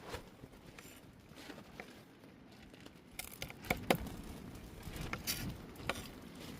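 Sporadic light knocks and clicks of food preparation, with two sharper knocks close together a little under four seconds in and a brief rustle after five seconds.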